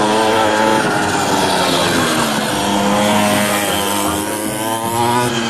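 A 49cc two-stroke minibike engine with a Polini big-bore cylinder, revving up and down several times as it rides.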